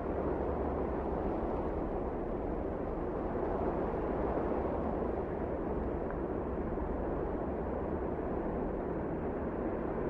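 Wind blowing steadily in a snowstorm: an even, low rushing noise that does not let up.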